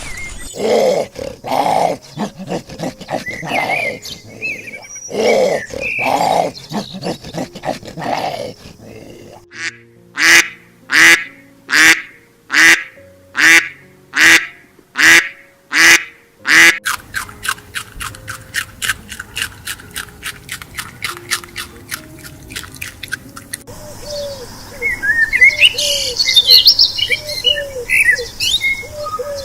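A run of different animal calls one after another: irregular calls, then about a dozen loud, evenly spaced calls, then a fast rapid series, with high bird chirping taking over near the end.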